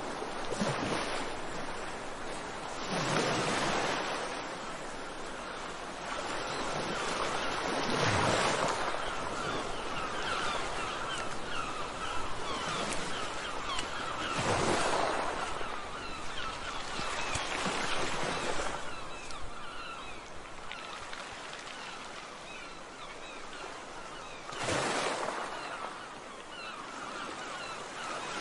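Many small birds chirping in a dense chatter over a steady rushing noise that swells every few seconds.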